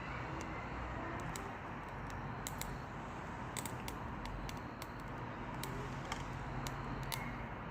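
Dead perilla branches burning in a Solo Stove wood stove: a steady flame noise with sharp crackles and pops scattered irregularly through it.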